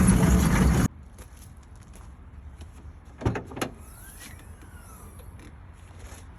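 Car running with a steady low rumble that cuts off abruptly about a second in, leaving a quiet background broken by two sharp knocks about three seconds later.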